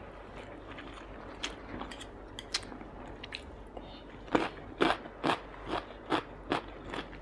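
Close-miked chewing of a mouthful of food: a few scattered soft mouth clicks, then from about halfway a steady run of chewing smacks, about two a second.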